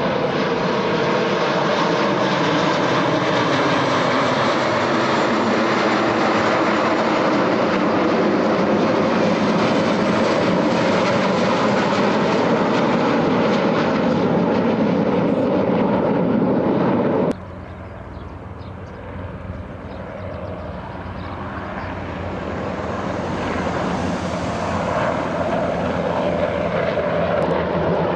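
Military aircraft flying low overhead: loud, steady engine noise whose pitch shifts as the aircraft pass. About seventeen seconds in the sound cuts off abruptly to a quieter aircraft noise, which then grows louder as another aircraft approaches.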